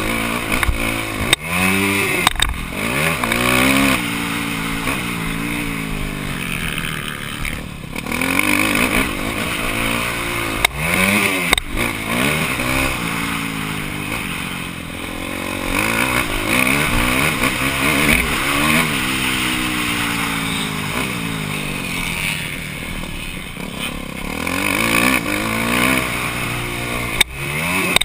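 Motocross bike engine heard on board, its pitch climbing and dropping back over and over as the throttle opens and closes, over a steady hiss. A few sharp knocks come through now and then.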